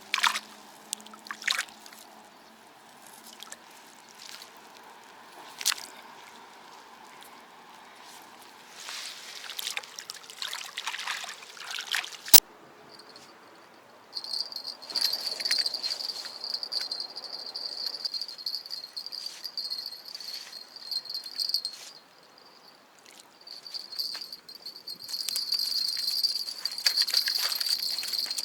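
Scattered rustling and clicks of handling, with one sharp click near the middle; then a steady high-pitched insect trill sets in and runs on, breaking off briefly about two-thirds of the way through.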